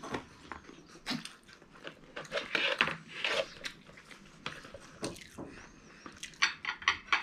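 Crunchy chewing and biting of raw carrot sticks and fried chicken, heard as irregular crisp crunches, with denser runs about two and a half to three and a half seconds in and again near the end.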